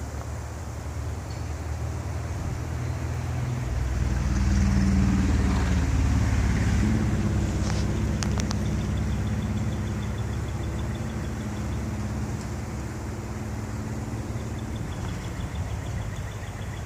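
Strong wind gusting over the microphone: a low rumble that swells about four seconds in and stays strong through the middle, with a few faint clicks.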